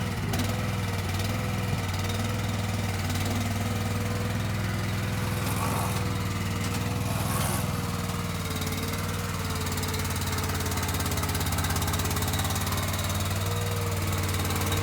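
An engine running steadily at constant speed, a low drone with a steady whine above it. Two brief hisses come about six and seven and a half seconds in.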